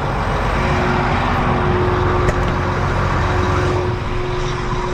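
Farm tractor engine running steadily, with a constant mid-pitched hum, while the tractor and wagon are inched into position.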